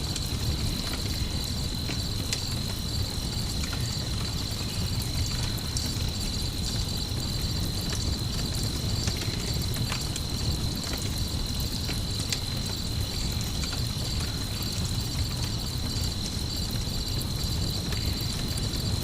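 Night soundscape of crickets chirping steadily in a continuous pulsing chorus, over the low rumble of a campfire with scattered sharp crackles.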